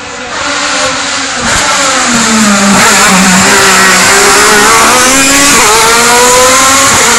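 Hillclimb race car engine, loud and getting louder as the car comes close, revving hard. The pitch climbs and then drops sharply at each gear change, about a second and a half in, at five and a half seconds and again near the end.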